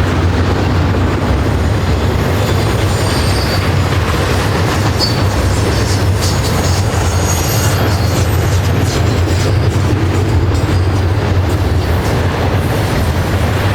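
Canadian National freight train rolling past: a loud, steady rumble of cars on the rails, with brief high wheel squeals in the first half.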